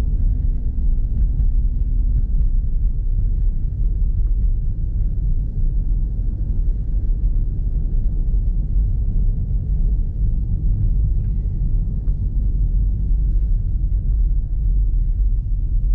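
Steady low rumble of an SUV driving on a snow-covered road, with engine and tyre noise heard from inside the cabin.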